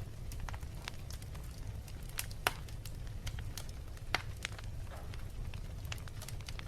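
Wood fire crackling in a fireplace: irregular sharp pops and snaps over a steady low rumble of the flames, with two louder pops about two and a half and four seconds in.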